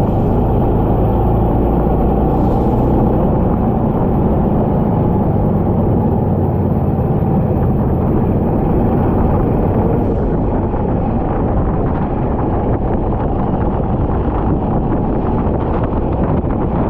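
Go-kart engine running at speed on track, its pitch shifting as it accelerates and slows, with wind noise on the microphone.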